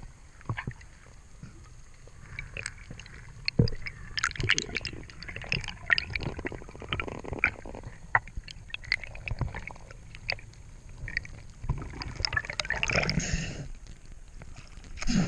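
Gurgling, bubbling water with many irregular sharp clicks and knocks over a low rumble.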